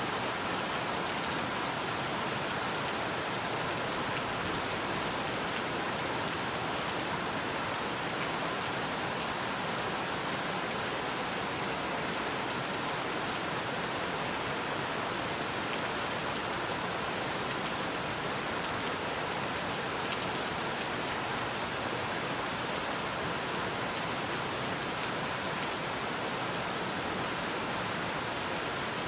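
Steady rain falling: an even, constant hiss with scattered faint drop ticks.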